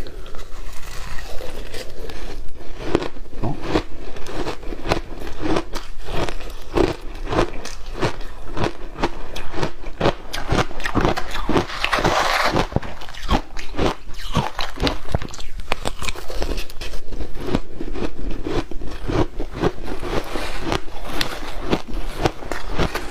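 Ice coated in matcha green tea powder being bitten and chewed: a rapid, irregular run of crunches with some scraping, louder in a burst a little after the middle.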